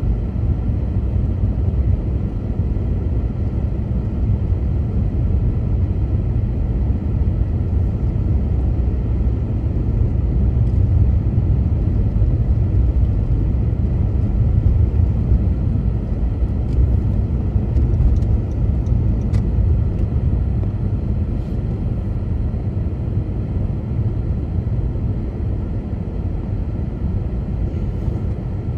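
Car driving on snowy roads: a steady, low road-and-engine rumble.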